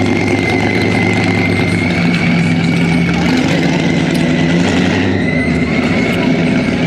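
Engines of classic cars running at low speed as they roll slowly past in a line: a steady low hum, with a thin steady high tone above it.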